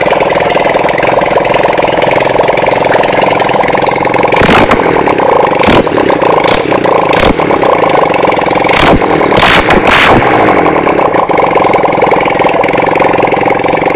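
2007 Lifan 250-4's 250cc parallel-twin engine running very loud with open exhaust ports and no header pipes, making a rapid bubbling sound rather than a deep growl. Sharp pops break through several times in the middle, and the engine cuts off near the end.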